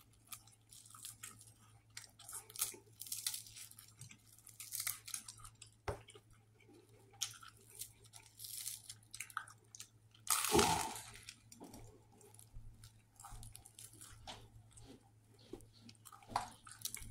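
Close-miked chewing of a toasted sandwich: wet mouth sounds with small crackly crunches of crust, irregular throughout. One louder, longer noisy burst comes about two-thirds of the way through.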